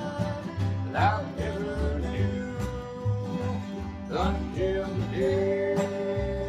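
Bluegrass band playing an instrumental passage: a lead instrument slides up into its notes and holds a long note near the end, over a steady pulsing bass line.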